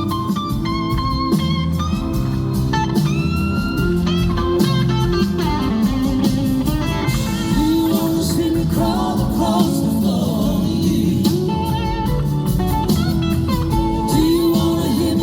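Live blues-rock band playing a slow song, with an electric slide guitar carrying the lead in gliding, wavering notes over bass, drums and keys.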